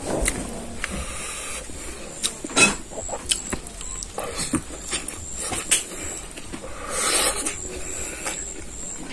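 Close-up eating sounds: a mouthful of raw green leaves being bitten and chewed, with scattered sharp clicks and a longer breathy sound about seven seconds in.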